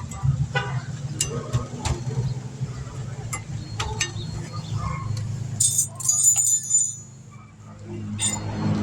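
Metal tools and brake parts clinking and knocking irregularly, with one bright ringing metallic clang about six seconds in, over a steady low hum.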